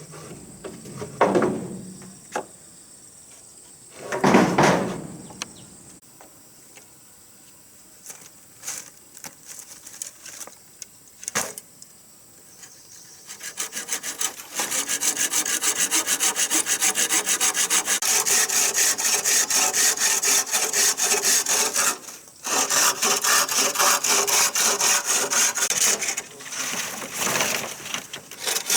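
Saw cutting through wood in fast, even strokes, starting about halfway in and pausing briefly about two-thirds through. Before that come a couple of dull thuds.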